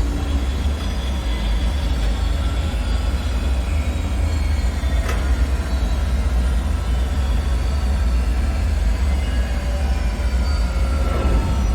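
Dark ambient bunker soundscape: a steady deep rumble with faint, thin ringing tones drifting above it, and a single faint click about five seconds in.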